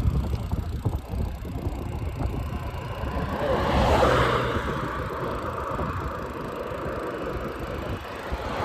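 Wind and road rumble on the microphone while riding, with a passing motor vehicle swelling to its loudest about four seconds in and then fading.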